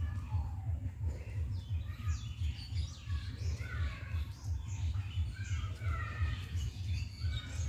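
Birds chirping and calling, many short overlapping calls, over a steady low rumble.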